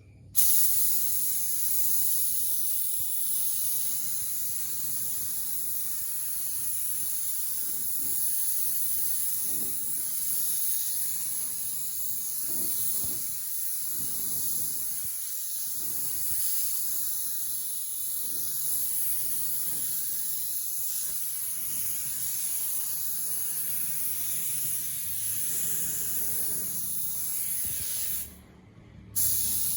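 Compressed-air spray gun hissing steadily as it sprays the first coat of clear varnish on a truck body. The spray cuts off briefly near the end and then starts again.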